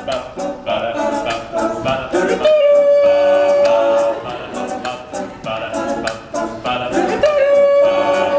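Male a cappella group singing a wordless instrumental break, with short vocal-percussion hits keeping the beat. A high voice holds one long note twice, about two and a half seconds in and again near the end.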